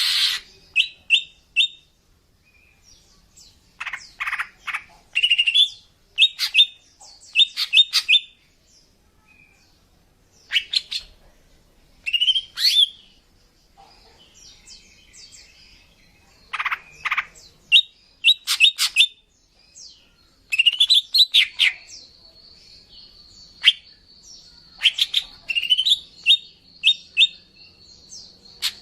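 Female green leafbird (cucak ijo) calling: bursts of quick chirps and short trills with rising sweeps, broken by brief pauses. In the second half a thin, steady high whistle runs under the calls. These are the calls used to lure male cucak ijo.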